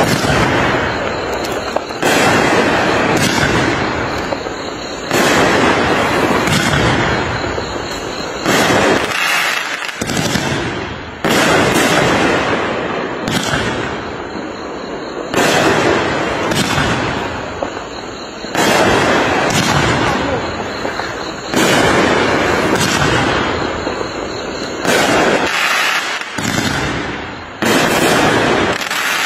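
Aerial fireworks going off in a steady series: a sharp bang every one to three seconds, each followed by a fading crackle and hiss from the burst.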